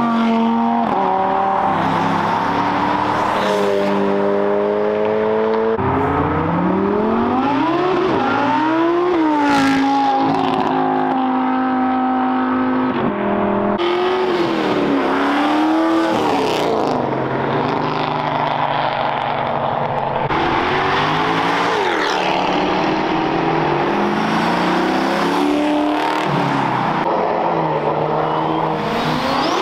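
Several performance cars accelerating hard past one after another, engines revving up through the gears, each climb in pitch dropping back at a shift.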